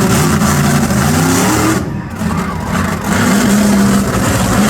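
Monster truck engine revving hard, rising in pitch, easing off for a moment about two seconds in, then pulling strongly again.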